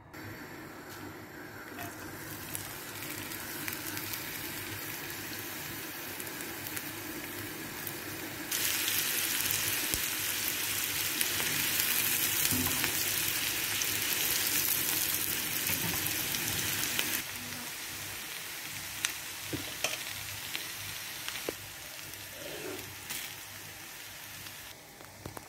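Onion, garlic and cumin sizzling in hot oil in a nonstick frying pan as they are stirred with a silicone spatula. The sizzle grows much louder about a third of the way in and falls back about two-thirds of the way through, with occasional short knocks of the spatula on the pan near the end.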